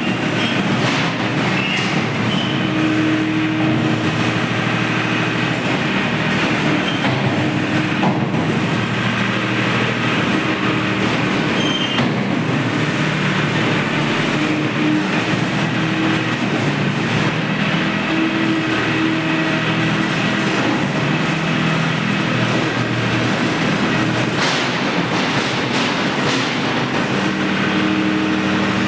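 Tractor's diesel engine running steadily for a long stretch, its pitch stepping up and down now and then, with a few brief knocks.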